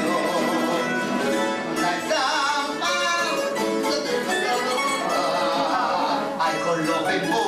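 A Cádiz carnival tango sung by a voice over a plucked-string trio of bandurria, laúd and guitar.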